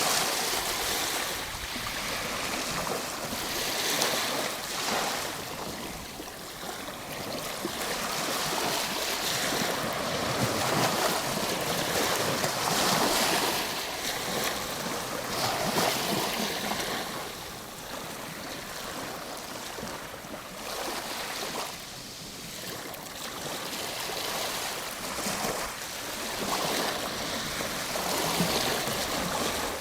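Ocean waves washing onto a shore: a steady hiss of surf that swells and fades every few seconds as each wave breaks and runs back.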